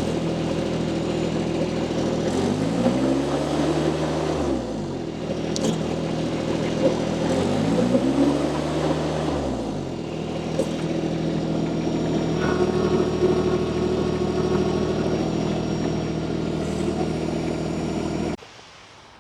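Mini skid steer loader engine running steadily. Its pitch rises and falls twice, about three seconds in and again about eight seconds in, and it cuts off suddenly near the end as the engine is shut down.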